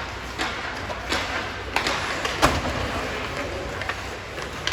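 Ice hockey play: sharp knocks of sticks and puck, about four in the first two and a half seconds, each ringing on in the arena.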